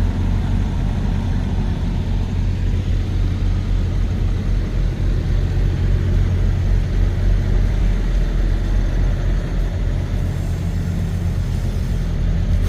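Semi truck under way: a steady low engine drone with road noise.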